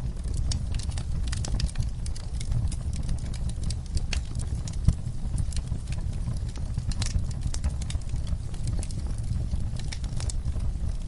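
Campfire crackling: frequent irregular pops and snaps over a steady low rumble, with one louder pop about five seconds in.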